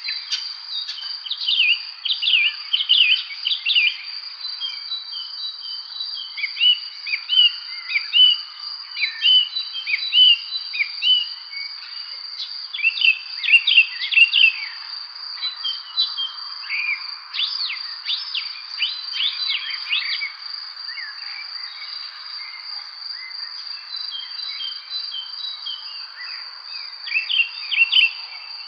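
Evening spring birds chirping and singing in quick clusters of short, high notes over a steady, unbroken high insect trill.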